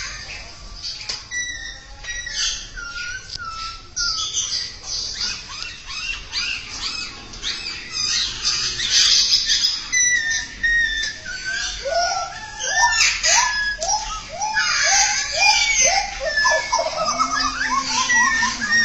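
Caged songbird singing a varied, continuous song of clear whistles and chirps. About two-thirds of the way through comes a run of quick rising notes, about three a second.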